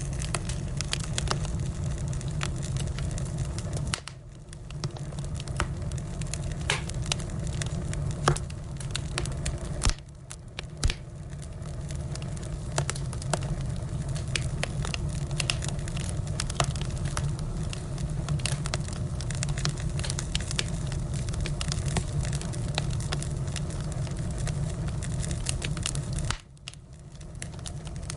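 Firewood burning in a wood fire, crackling and popping in frequent sharp snaps over a steady low rumble.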